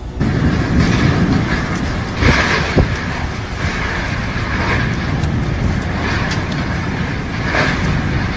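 Strong storm wind blowing and buffeting the microphone, a deep rumble with a hiss that swells in gusts about every second or so.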